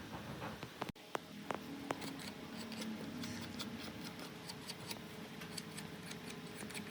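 Faint workshop handling sounds: scattered light clicks and taps over a low steady hum.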